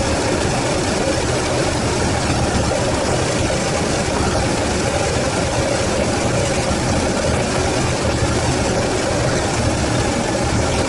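Freshly rebuilt Toyota 4A-GE twin-cam four-cylinder engine on carburetors, running steadily after its first start.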